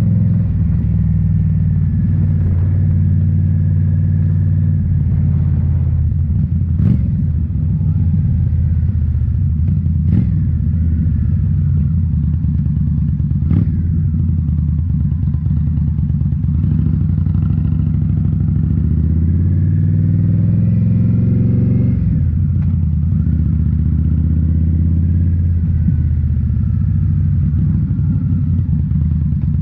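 2018 Indian Scout Bobber's V-twin engine running through Rinehart slip-on mufflers while riding, at a steady pitch and then accelerating, the pitch rising for a few seconds past the middle before dropping back. A few brief sharp knocks come several seconds apart.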